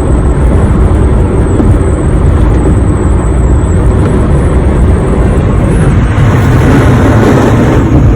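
Loud, steady wind and road rush inside a 2021 Honda HR-V's cabin at about 60 mph with the moonroof open, heaviest in the low end.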